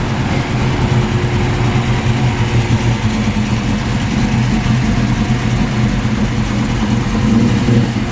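Holden Torana's engine running steadily at low revs, with a brief swell in level about seven seconds in.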